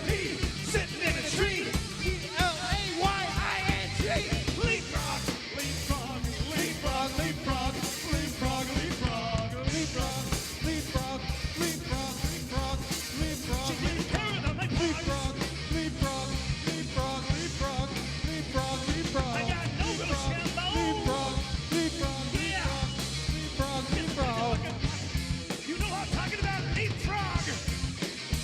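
A rock band playing with sung vocals over a driving drum beat, bass and guitar.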